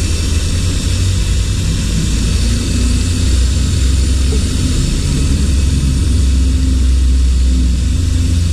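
Angle grinder running steadily as it scrubs softened carbon deposits out of the combustion chamber of a Yamaha Fazer 250 cylinder head.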